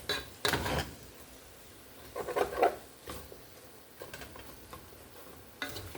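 A utensil stirring and scraping in a pan of sautéing chicken, onions and peppers, in short clattering bursts: one about half a second in, a louder one around two and a half seconds in, and another near the end.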